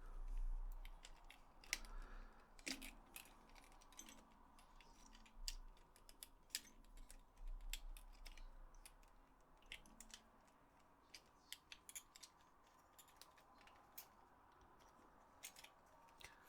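Faint, irregular small clicks and taps of plastic controller parts being handled and fitted together while a DualShock 4 controller is reassembled.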